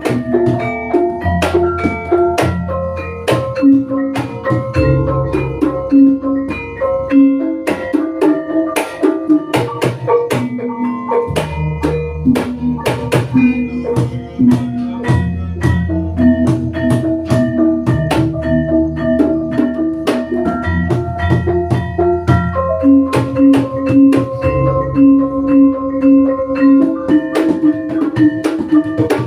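Javanese gamelan in pelog tuning playing accompaniment for the kuda kepang horse dance. Struck metal keys and gongs ring out in a stepwise melody over busy, steady drumming.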